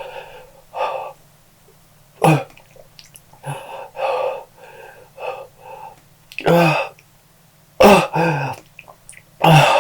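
A man breathing hard and wheezing in the burn of a super-hot chili chip, with heavy breaths broken by several sudden loud coughs. The coughs come about two seconds in and in a cluster over the last three seconds.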